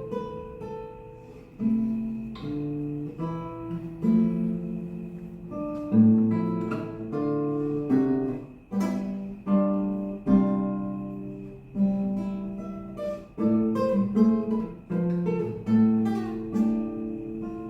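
Acoustic guitar playing a passage of strummed chords and plucked notes, each struck sharply and left to ring away, with a faint steady high-pitched tone underneath.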